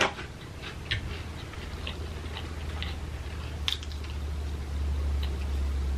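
Close-miked chewing and biting of French fries, with small wet mouth clicks scattered through. A steady low hum underneath gets louder about two-thirds of the way in.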